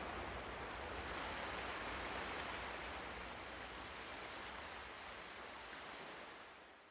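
A steady rushing noise with no distinct events, slowly growing fainter and fading out at the end.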